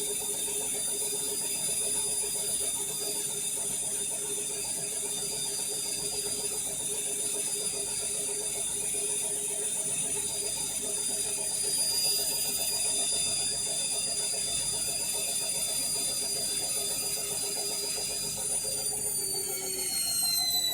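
Indesit My Time washing machine on an intermediate spin: a steady high motor whine over drum rumble. Near the end the whine falls in pitch as the drum slows, the spin winding down before the final rinse.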